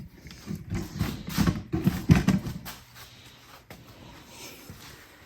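Irregular knocks and clatter of ATV parts being handled and fitted during reassembly, busiest in the first half and then dying down to a few faint clicks.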